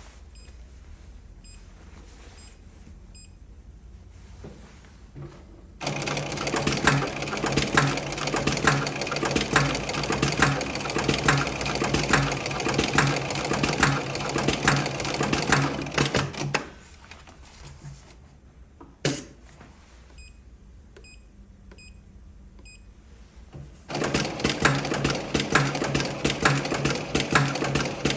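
Electronic pattern post-bed sewing machine stitching a programmed single-needle pattern. It runs fast in two spells, about ten seconds and then about four, with a pause between them and a single sharp click during the pause.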